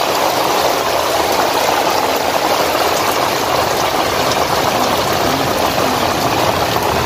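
Torrential rain pouring down onto a flooded, water-covered lot: a loud, steady, dense hiss of drops splashing into standing water.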